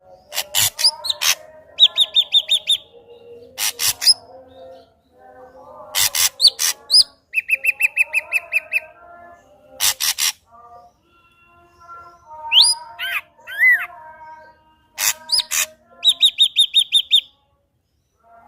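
Ashy drongo singing a loud, varied song: harsh rasping notes, three quick runs of about eight repeated high notes, and rising whistles about two-thirds of the way in.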